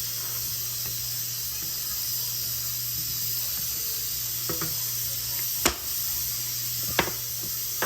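Potato curry (butter aloo) sizzling and simmering in a pan with a steady hiss. Near the end, three sharp clicks come roughly a second apart.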